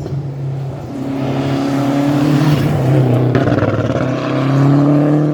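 Rally car engine at high revs driving past, getting louder, with a brief lift or gear change about three seconds in, then pulling hard again. The sound cuts off abruptly at the end.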